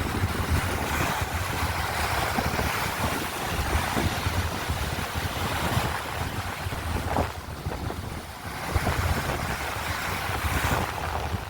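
Small sea waves washing onto a sandy beach, a steady surf wash that eases briefly about two-thirds of the way through, then swells again. Wind buffets the microphone with a low rumble throughout.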